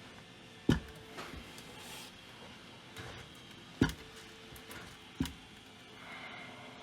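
Three sharp clicks or knocks, with a few fainter ticks between them, over a faint steady hum.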